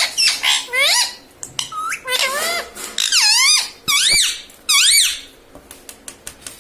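Ringneck parrot giving a run of shrill squawking calls, each sweeping up and then dropping in pitch. About eight come in quick succession, then only faint clicks are left near the end.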